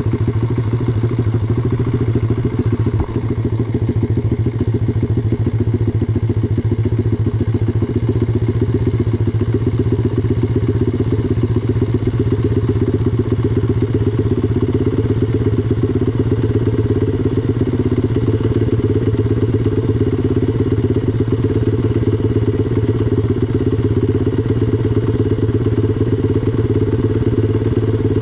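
A 125cc pit bike's single-cylinder four-stroke engine running steadily at an even speed, with a fast, even pulse of firing strokes and no clear revving.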